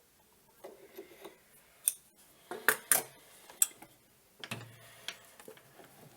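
Small metal tools or parts being handled on a metal workshop surface, with a run of sharp clinks and knocks, the loudest few in the middle, and no steady machine sound.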